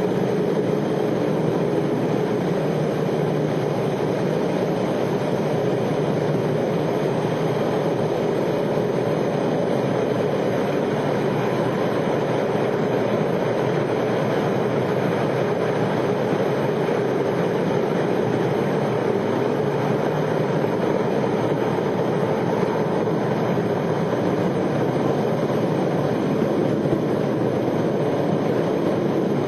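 A continuous, steady roar with no change in pitch or level: a recorded 'mystery' roaring noise of the kind that the uploader suspects could be a power plant releasing steam.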